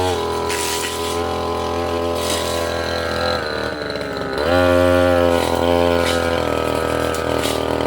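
Brush cutter engine running at cutting speed, easing off about three and a half seconds in and revving back up a second later, with the blade swishing through undergrowth.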